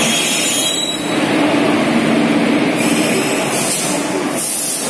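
Indian Railways passenger train running: a steady, loud rumble and rattle, with two brief hissing rushes near the end.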